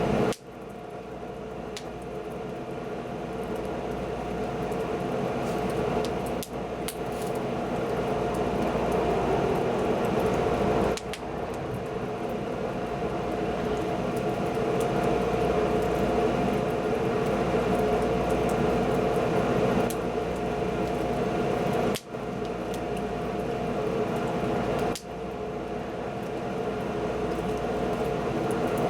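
Wood fire burning with a steady rushing noise and a few sharp crackles. The sound cuts out abruptly several times and swells back up each time.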